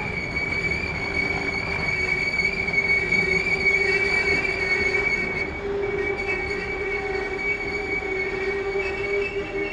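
A train moving on the rails, with a steady, high-pitched wheel squeal held over a continuous rumble.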